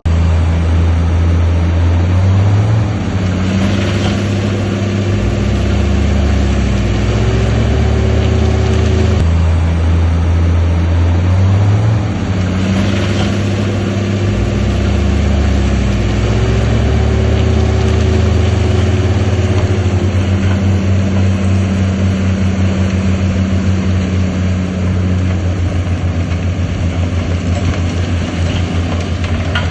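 Diesel engine of heavy earthmoving machinery running under load. Its pitch steps up twice and settles back each time, then it runs lower with a fast, even pulsing near the end.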